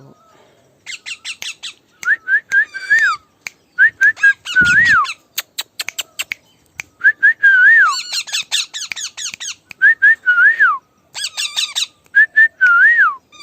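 Parrot repeating a whistled phrase about five times: a few quick rising notes, then a longer rise-and-fall whistle. Harsh, rapid squawks come between the phrases, and there is a low thump about four and a half seconds in.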